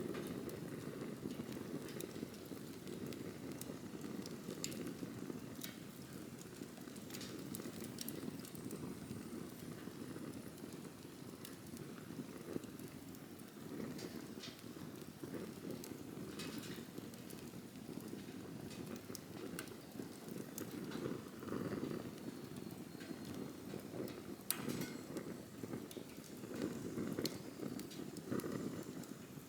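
Wood campfire burning: a steady low rush with irregular sharp crackles and pops of burning wood scattered throughout, one louder pop about five seconds before the end.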